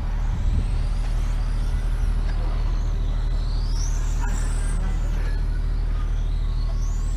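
Racing motorbikes running on the circuit, their high engine whine rising and falling in pitch as they accelerate and pass, over a steady low drone.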